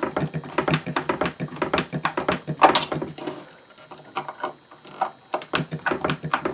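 Rapid clicks and small knocks of screws and parts being worked on a wooden hand-crank coffee grinder during reassembly, several a second. The loudest knock comes about two and a half seconds in, and there is a quieter stretch in the middle.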